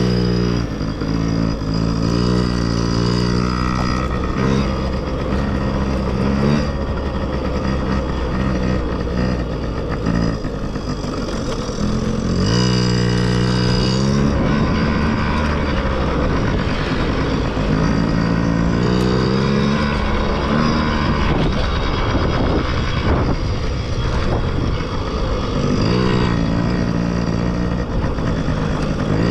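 Dirt bike engines revving up and down, the pitch rising and falling in several runs, with a steady engine drone in between.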